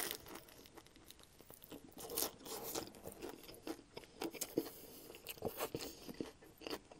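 A bite taken from a Subway sub right at the start, then the mouthful being chewed, with many small, irregular crunches.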